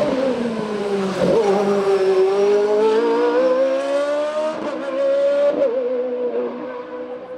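Hill-climb race car's engine running hard at high revs, its note sinking at first, then climbing steadily, with two sharp breaks in the note, about a second in and again past the middle. It grows quieter in the last second or so.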